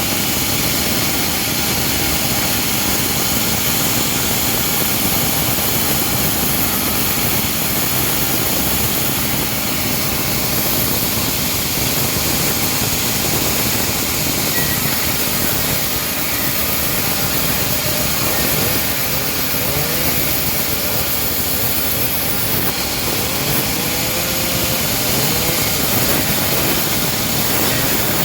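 Homemade bandsaw sawmill running steadily as it saws a teak log. Its engine-like drone carries on without a break, with a few brief wavering tones about two-thirds of the way through.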